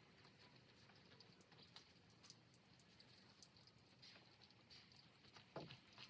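Near silence: faint room tone with scattered small clicks, one a little stronger near the end.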